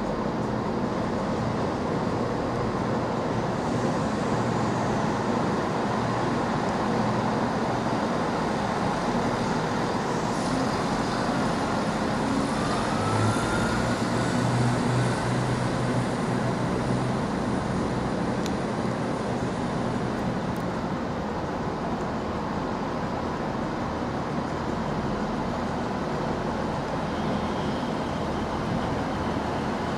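Passenger trains running through a railway station: a steady rumble of diesel engines and wheels on track, with a brief rising squeal about twelve seconds in.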